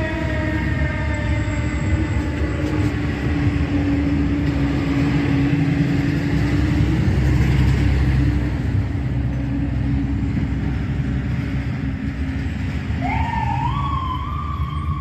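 Fire apparatus on an emergency run: a siren tone slowly winds down and fades over steady engine and road rumble. About two seconds before the end, a siren starts up again, rising in pitch.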